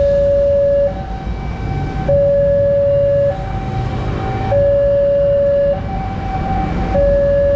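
Railroad level crossing's electric warning bell sounding its alarm: two steady notes, lower then higher, each held about a second and repeating without a break, over a low rumble.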